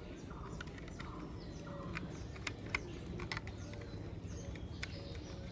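Scattered light clicks and taps of small plastic toy-truck parts being handled and screwed together, over a low steady hum, with faint bird chirps in the background.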